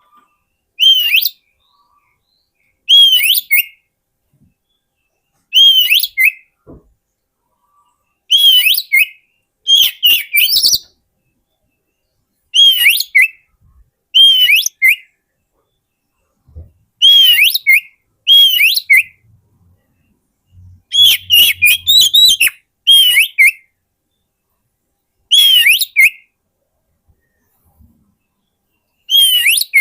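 Oriental magpie-robin (kacer) song: short whistled phrases, each under a second, repeated every two to three seconds with silence between. This is a lure call for attracting wild magpie-robins.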